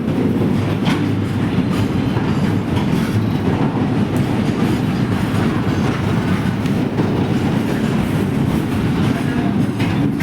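Train running on the rails: a steady, loud rumble with wheel clatter.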